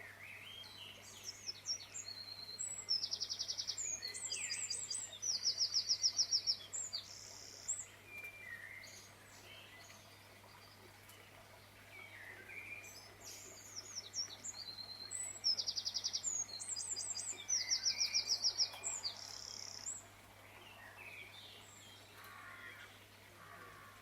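Songbird singing: a long phrase of high chirps and fast rattling trills, then the same phrase again about twelve seconds later, over a steady low hum.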